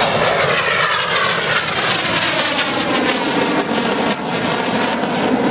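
Red Arrows BAE Hawk jets flying past, a loud steady jet roar whose whine falls in pitch as they go by.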